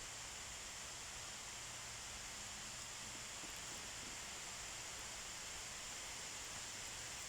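Steady rain falling, a faint, even hiss.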